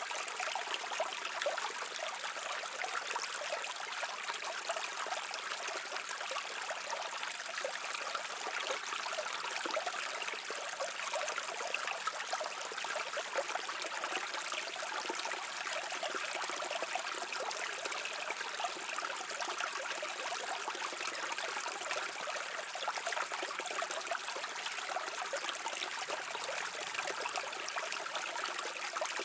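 A brook flowing over rocks: steady babbling and trickling water with a bright, fine-grained splash.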